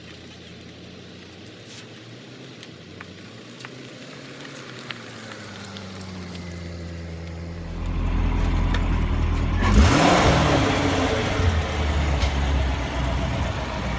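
A car engine grows louder and then, about eight seconds in, comes up to a steady run; near the ten-second mark it is revved, its pitch sweeping up and back down.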